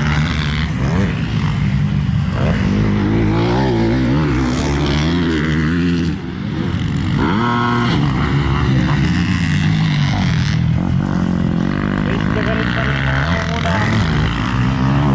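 Several motocross bikes racing, their engines revving up and down over one another as the riders shift and open the throttle. There is a brief drop in loudness about six seconds in.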